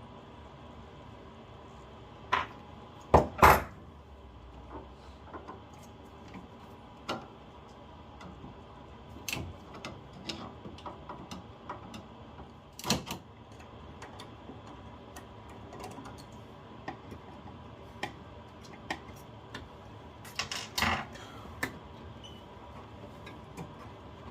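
Metal tools and boiler fittings clinking and knocking during hand work: scattered light taps and clicks, with louder clanks about 3 seconds in, about 13 seconds in and around 21 seconds in.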